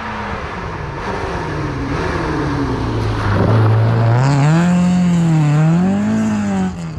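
Rally car engine under hard driving, its pitch low and fairly steady at first, then climbing and dropping twice in the second half as it revs through the gears.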